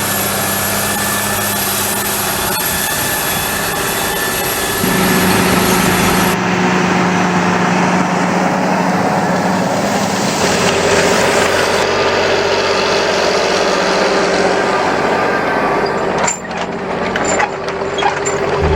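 Large John Deere farm tractor diesel engines running steadily, in several short clips with abrupt changes of engine note where the clips are cut. Near the end the sound drops briefly, with a few sharp clicks or knocks.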